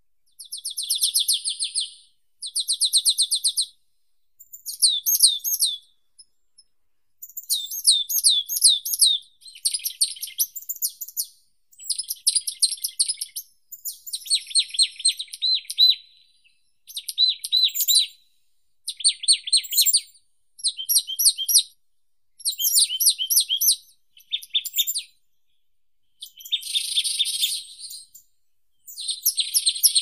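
Songbirds singing in short, fast trilled phrases of a second or two each, one after another with brief pauses between.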